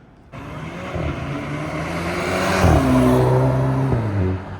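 Car with its muffler and resonator deleted, accelerating hard past. The exhaust note swells to a peak about halfway through, drops in pitch as the car goes by, and fades near the end.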